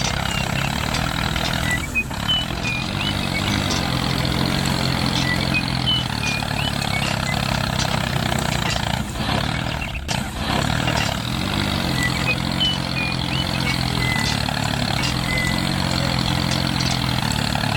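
Small engine running steadily at idle, with short high chirps now and then.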